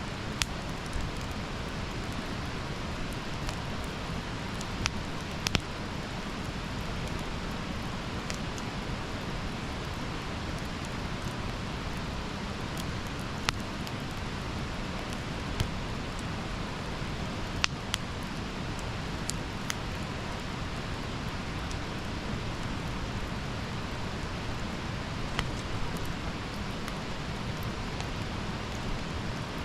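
Wood campfire burning: a steady hiss with sharp crackles and pops at irregular moments, a few seconds apart.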